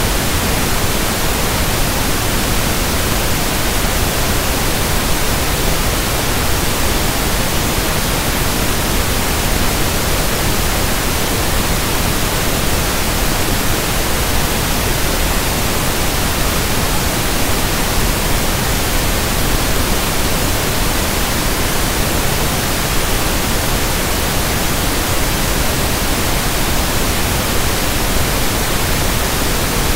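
Steady synthetic pink noise (1/f noise): an even, constant hiss across the whole range with no tones or changes.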